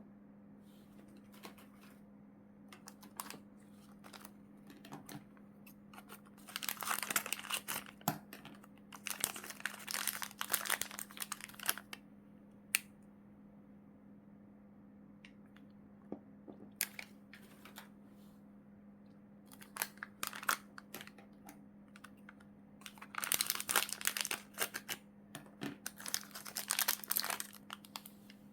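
Plastic packaging crinkling and rustling as it is handled and unwrapped, in two long stretches with scattered light clicks and taps between them.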